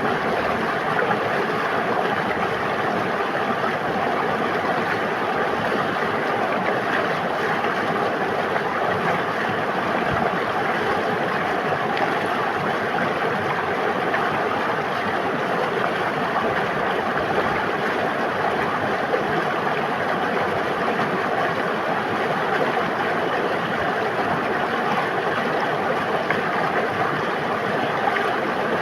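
River water flowing: a steady, even rushing and gurgling of running water.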